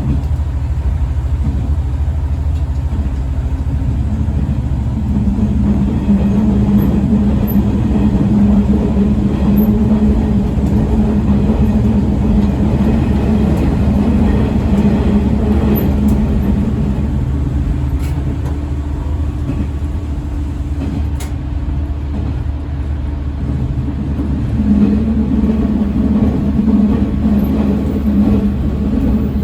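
Single-car diesel railcar running along the line, heard from inside beside the driver's cab: a steady engine drone over the rumble of wheels on rail. The engine note grows stronger for a stretch in the first half and again near the end.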